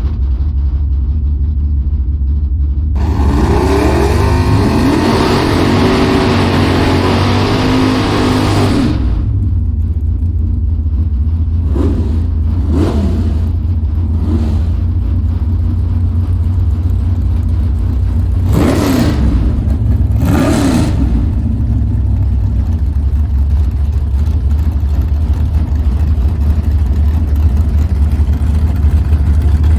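Drag race car engines: a steady low idle throughout, a louder stretch of engine noise from about 3 to 9 seconds in, and several short revs, rising and falling in pitch, between about 12 and 21 seconds in.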